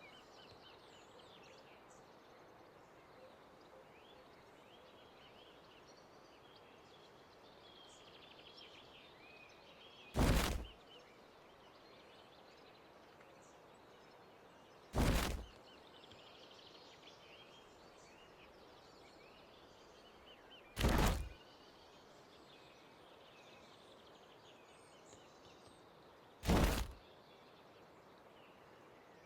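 Faint outdoor background with scattered high bird chirps, broken by four loud short thumps that come about five to six seconds apart.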